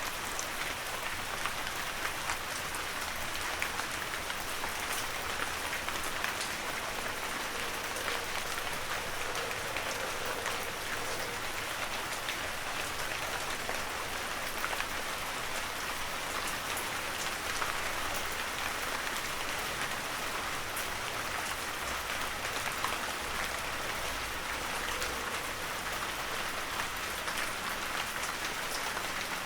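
Heavy rain falling steadily on a forest, an even hiss full of small drop impacts.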